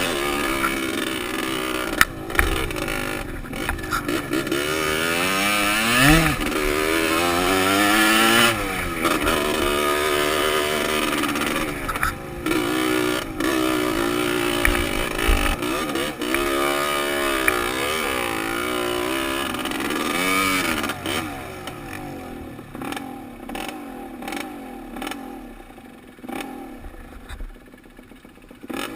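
Dirt bike engine revving up and down again and again, with scattered knocks and clatter from the bike over rough trail. For roughly the last third the engine drops to a quieter, lower run.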